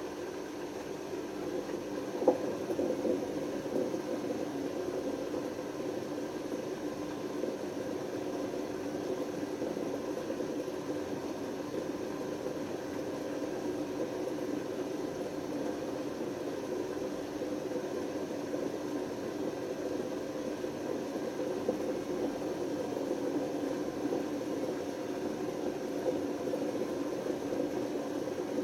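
Panasonic NA127VB6 washing machine running with a steady mechanical drone from its failed drum bearings, with one sharp knock about two seconds in.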